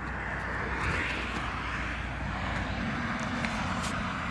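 Steady rushing noise of nearby road traffic, swelling slightly about a second in.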